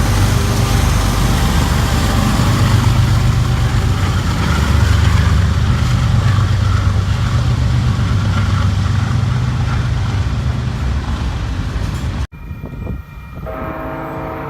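A train passing close by, its loud low rumble mixed with wind noise on the microphone. About twelve seconds in, the sound cuts off abruptly and a quieter train horn sounds a chord of several tones.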